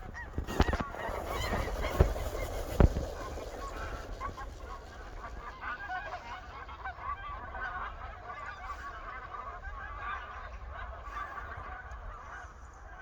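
A flock of wild geese calling, many short honks overlapping without a break. A few sharp knocks stand out in the first three seconds.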